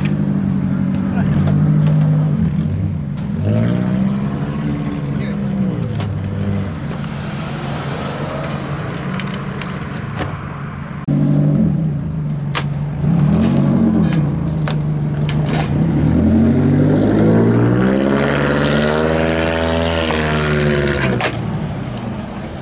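Car engines revving repeatedly as cars drive off, the exhaust note climbing and dropping in pitch several times. The longest rev builds and falls away about three quarters of the way through.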